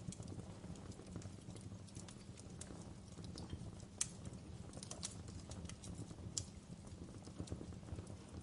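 Wood fire in a fireplace crackling: a steady low rumble of flames with irregular sharp pops and snaps, the loudest pops about four seconds in and again near six and a half seconds.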